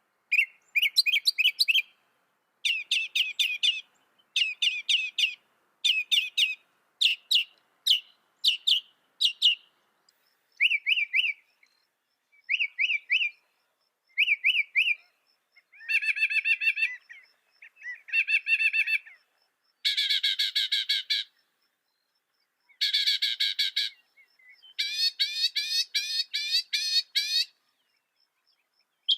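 Mockingbird singing: a series of varied, high-pitched phrases, each made of the same short note repeated rapidly several times, with brief pauses between phrases and a new pattern in each.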